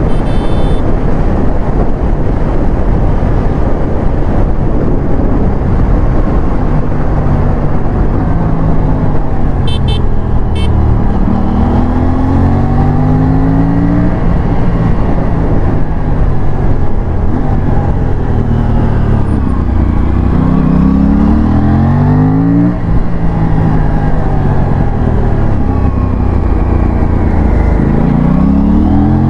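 Aprilia RS457's parallel-twin engine being ridden hard. The revs climb and drop sharply with each upshift, three times, over heavy wind rush.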